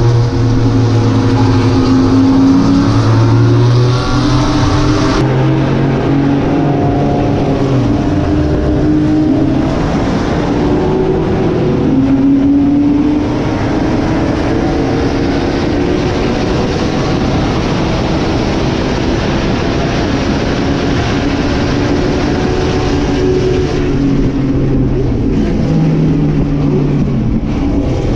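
Vintage Corvair race car's air-cooled flat-six engine running hard at racing speed, its pitch climbing and dropping repeatedly as it revs through the gears.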